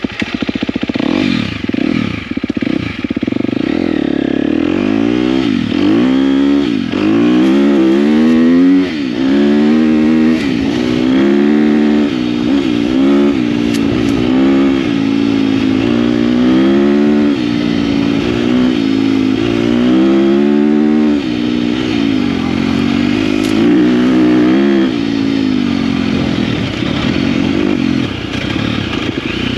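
KTM dirt bike engine under way, its revs climbing and dropping again and again as the rider works the throttle, over a steady hiss of wind and tyre noise.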